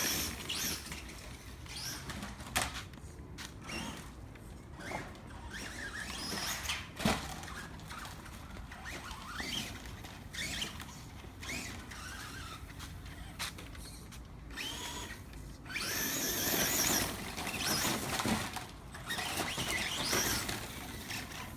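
Brushless electric motor of an ECX Ruckus 1/10 RC monster truck whining up and down in pitch as it accelerates and brakes in bursts, with scattered knocks and clatter. It is loudest and noisiest in the last few seconds.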